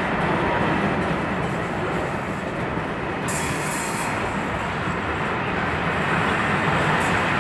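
Intermodal container freight train's wagons rolling past close by: a steady noise of steel wheels running on the rails.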